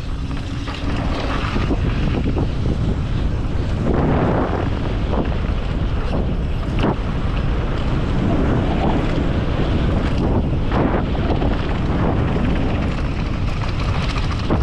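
Wind buffeting the microphone of a mountain bike rider's camera on a fast downhill run, over a steady rumble of tyres on the dirt trail. A few sharp knocks come as the bike hits bumps.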